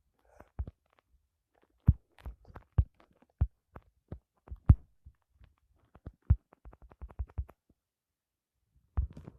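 An irregular series of short, dull knocks, a few a second, bunched closer together toward the end and followed by a pause of about a second before one last knock.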